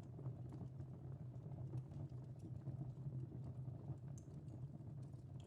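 Wood fire in a fireplace crackling: scattered small irregular pops and snaps over a low steady rumble.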